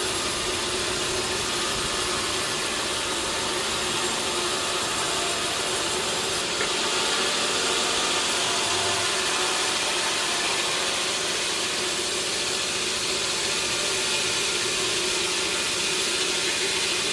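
Sawmill saw running steadily through a large teak log, a continuous mechanical cutting noise that grows a little louder about six seconds in.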